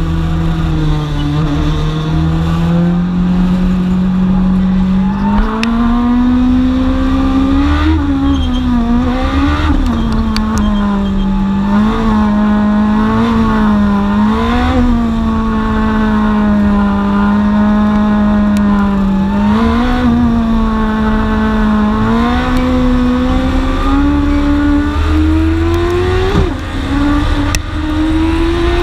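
Dwarf race car's engine heard from on board, running hard, its pitch easing off and climbing again every couple of seconds as the driver lifts and gets back on the throttle around the track, with steady low rumble and road noise underneath.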